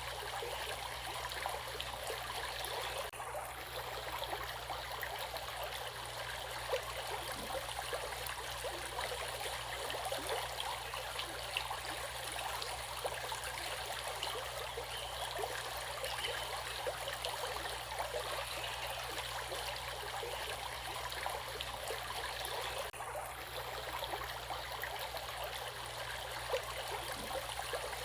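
Stream water flowing steadily, with fine trickling and splashing and no deep rumble.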